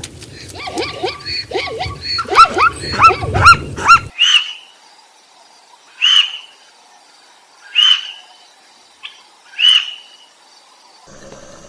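Animal calls: for about four seconds a dense run of quick, overlapping arching calls over a low rumble, then after an abrupt cut, single short high calls repeated about every two seconds.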